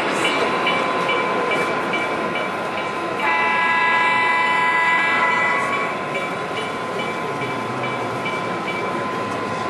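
Model train locomotive sound effects. A multi-tone diesel-style horn chord blows for about two and a half seconds, starting about three seconds in, over regular ticking about three times a second and a steady high tone.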